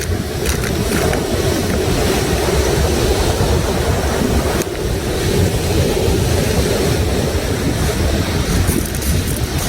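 Sea waves washing and breaking on the shore, a steady rushing surge that swells and eases without pause.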